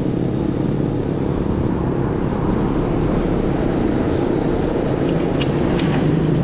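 Steady wind rush and road noise on the microphone of a camera riding along with a road bicycle at speed.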